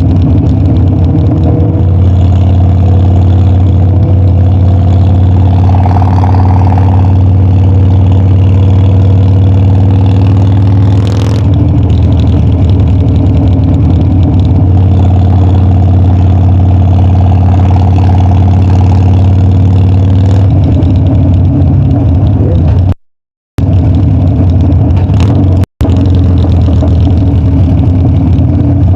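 Harley-Davidson Dyna's V-twin engine and exhaust running steadily under way, its note shifting about eleven seconds in and again around twenty seconds in. The sound cuts out briefly twice near the end.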